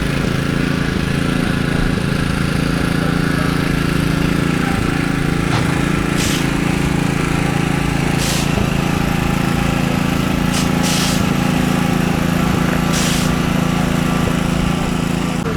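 Rally car engine running steadily at a constant low speed, with no revving. Five short hisses break in over it from about six seconds in.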